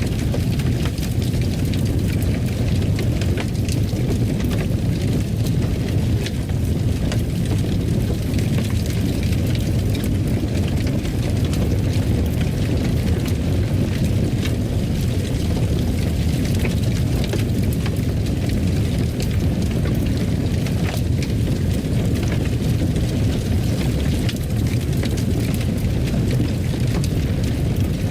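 Fire burning in a fireplace: a steady low roar with scattered small crackles and pops.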